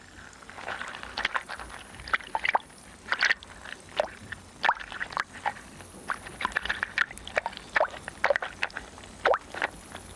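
Wet underwater bubbling and gurgling: irregular short blips and pops, a few each second, some of them dropping in pitch.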